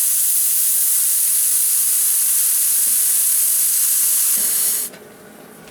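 Torch lighter's blue gas flame hissing steadily while heating sheet metal to shrink a stretched spot, then shut off abruptly near the end.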